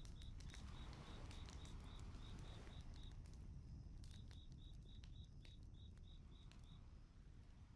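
Faint outdoor night ambience: a cricket chirping in an even, high pulse of about four chirps a second, pausing briefly and stopping near the end, with scattered faint crackles from a campfire.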